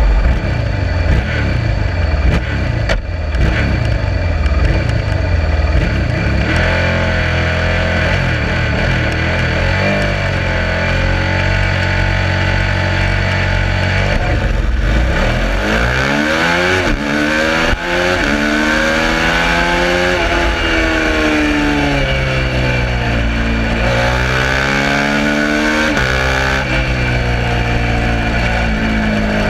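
Suzuki SV650 V-twin racing motorcycle engine, running steadily at low revs for the first few seconds, then revving up and down. From about halfway in it pulls hard, the pitch rising in long sweeps and dropping sharply again and again as it accelerates through the gears.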